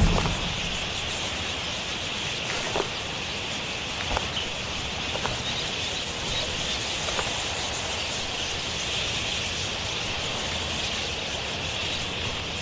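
Outdoor bush ambience: a steady high-pitched insect drone, with a low thump at the very start and a few faint short ticks scattered through it.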